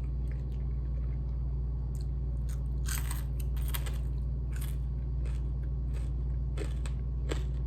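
Close-up chewing of crispy refried chicken feet, with irregular sharp crunches as the skin and small bones break, over a steady low hum.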